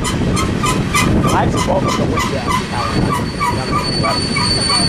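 Freight train's grain hopper cars rolling past with a heavy rumble and a regular clicking about four times a second. A steady high-pitched wheel squeal sets in near the end.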